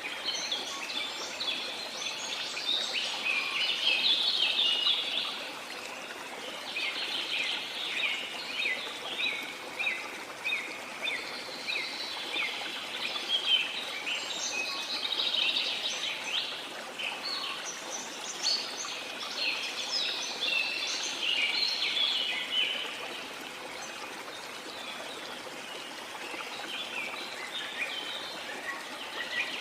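Rainforest birds chirping and calling in dense, busy bursts over the steady rush of a waterfall. The birdsong thins out for a few seconds late on, leaving mostly the water.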